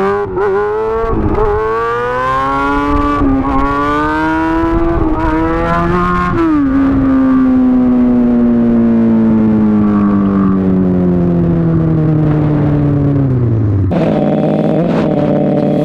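Sport bike engine pulling hard, its pitch climbing in steps for about six seconds, then the throttle is rolled off and the engine note falls steadily for about seven seconds as the bike slows. About two seconds before the end it settles to a steady, lower running note.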